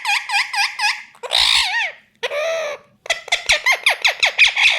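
Pet parakeet calling: rapid runs of short, sharp, high calls, about five a second, broken by two longer single calls in the middle.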